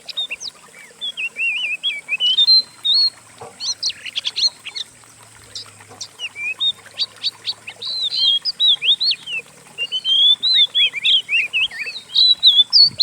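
Songbirds chirping and whistling in quick, overlapping runs of short slurred notes: a recorded blend of several cage-birds' songs, of the kind used to train an Oriental magpie-robin.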